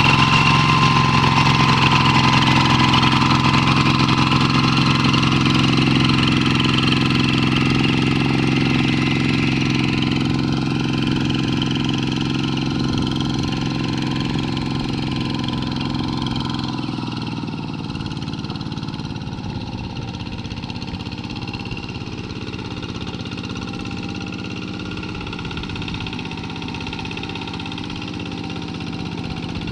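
Paddy-field tractor engine running steadily, getting gradually quieter and dropping further about halfway through.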